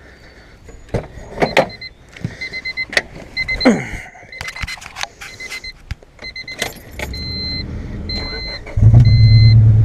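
Clicks and knocks over a repeating electronic warning chime, then a low hum. Near the end, a 1997 Honda Civic's D16Y8 four-cylinder engine starts and runs loudly. It is still misfiring because of a damaged spark plug wire boot, so it runs rough.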